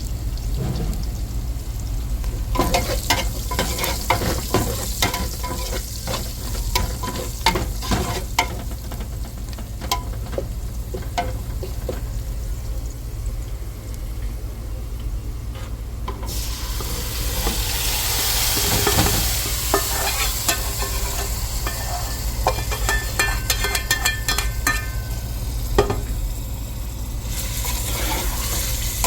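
Food being stirred and scraped with a utensil in a frying pan, with many quick clicks against the pan. Sizzling grows loud from a little past the middle until near the end.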